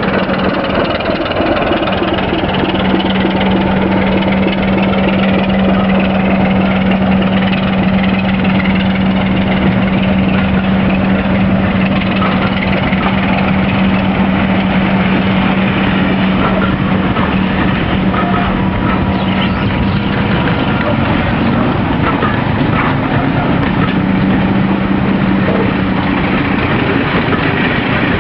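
Class 27 diesel locomotive's six-cylinder Sulzer engine running hard as the locomotive pulls its train away. The loud, steady engine drone carries a strong hum that drops out about twenty seconds in, comes back for a few seconds, then fades again.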